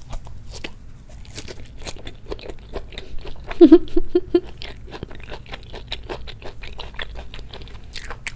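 Close-miked chewing of a pan-fried zucchini pancake (aehobak-jeon), with many small mouth clicks. About halfway through there is a brief hum in four quick pulses.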